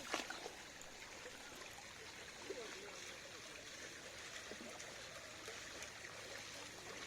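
Water running and trickling steadily, with a sharp splash-like hit just after the start.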